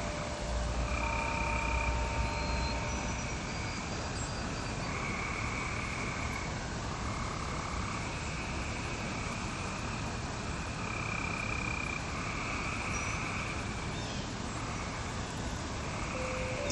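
A chorus of frogs calling in repeated trills, each about a second and a half long, over a steady hiss. Held wind-chime tones fade out in the first few seconds, and new chime notes sound near the end.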